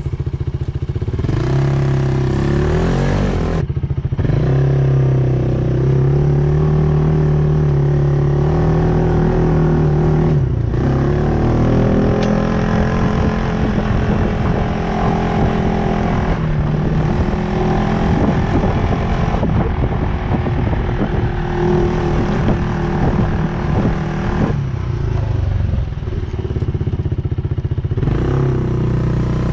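Polaris RZR side-by-side engine running under way, its pitch rising and falling as the throttle opens and eases off several times.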